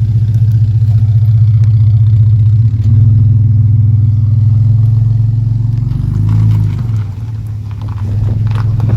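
Ford Falcon's overhead-cam inline-six, fitted with an aftermarket Crow cam, idling with a loud, lumpy note. About six seconds in it gets a short blip of the throttle, then settles back to idle.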